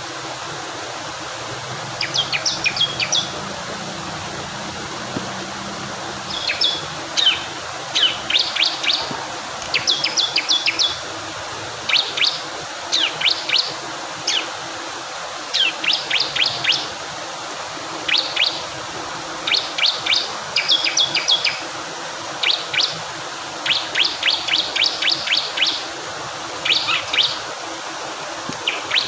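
Bar-winged prinia (ciblek kristal) singing short bursts of quick, sharp high notes, one burst every second or two, over the steady rush of flowing water.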